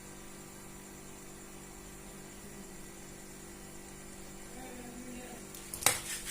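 Steady electrical hum and hiss, then a sharp click or knock near the end.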